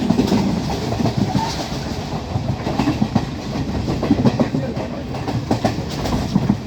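Class S12 diesel multiple unit train running along the track: a steady rumble with frequent short knocks and clatter from the wheels on the rails.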